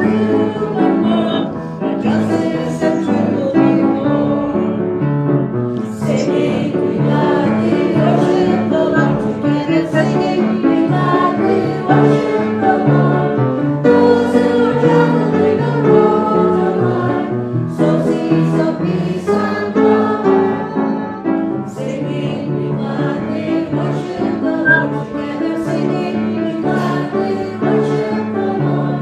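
Congregation singing a hymn together with musical accompaniment.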